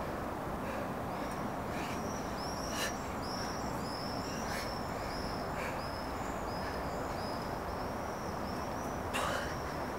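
A small bird chirping: a quick run of short, high, arched notes repeating over steady outdoor background noise, with two brief sharp clicks.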